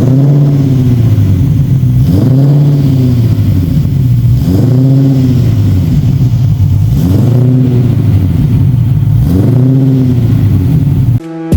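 LS V8 engine in a Lexus IS 200 being revved through its exhaust five times in a row, each rev climbing and falling back, about every two and a half seconds. The engine stops shortly before the end.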